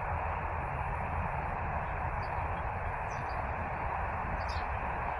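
Steady background noise with a few faint, short, high-pitched bird chirps about two, three and four and a half seconds in.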